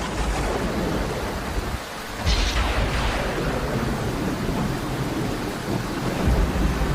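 Steady heavy rain during a thunderstorm with low thunder rumbles. A sudden crack of thunder comes about two seconds in, and another low rumble comes near the end.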